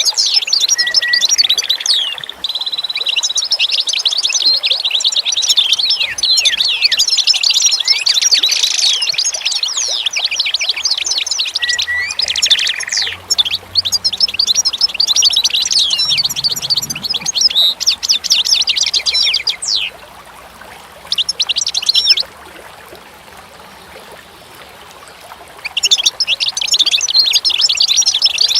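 Many small birds chirping and twittering in a dense, overlapping chorus of quick high calls. Near the end the chorus drops away for about six seconds, broken by one short burst, then starts again.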